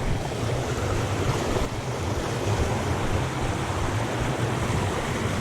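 Steady rushing of flowing creek water, mixed with wind rumbling on the microphone.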